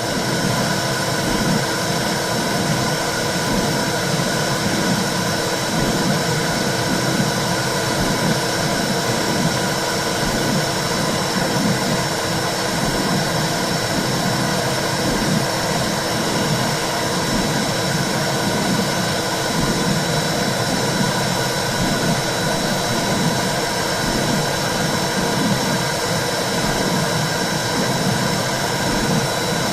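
Womb sound for soothing a baby: a steady, loud whooshing rumble with a constant hiss above it, unchanging throughout.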